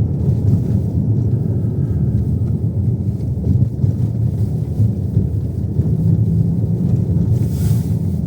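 Road and tyre noise inside a moving car's cabin: a steady low rumble from non-studded winter tyres on the road, with a brief hiss near the end.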